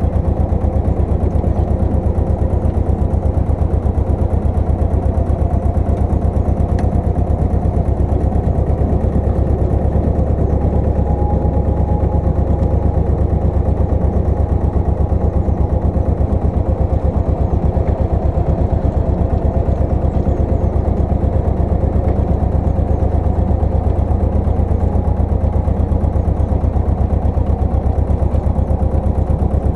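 Pasquali 980 EX compact tractor's engine running steadily under load while it drives a rotovator.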